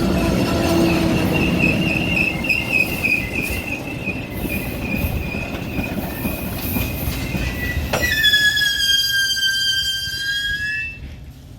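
Commuter train rolling on the rails with a steady rumble and a thin, wavering wheel squeal. About eight seconds in, a louder, slightly falling squeal sets in sharply, then stops about three seconds later.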